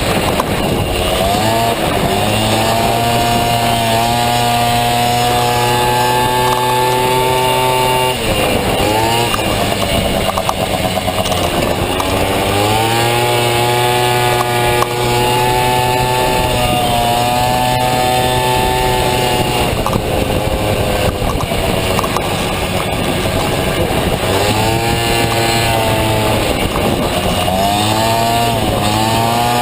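Two-stroke Honda Dio engine in a Honda Motocompo running hard with a high, steady buzz. Its pitch dips and climbs back several times as the throttle is eased off and reopened.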